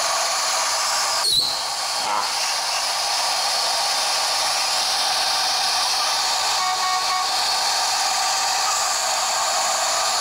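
A bus-mounted air horn blown in one long, unbroken blast, a steady chord of several tones over a hiss of air.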